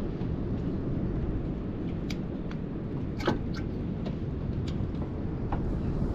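Wind rumbling on the microphone over the sea, with small, sharp splashes and drips of water against a kayak every so often.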